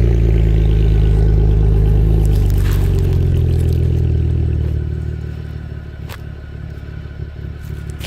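A 2010 Chevrolet Camaro's engine idles through an MBRP cat-back exhaust, running high and loud just after start-up. About five seconds in the idle settles down to a lower, quieter note. A single sharp click comes about six seconds in.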